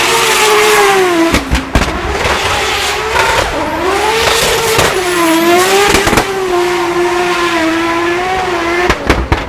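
Toyota Supra MK5 drifting: the engine is held high in the revs, its pitch rising and falling with the throttle, over screeching tyres. A few sharp exhaust pops come out, then a rapid burst of crackles near the end.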